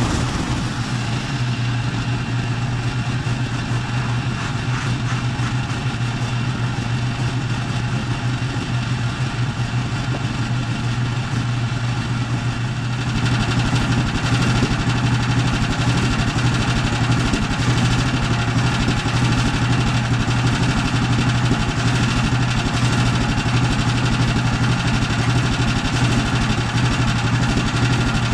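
A small engine running steadily with a deep hum, getting louder and noisier about thirteen seconds in.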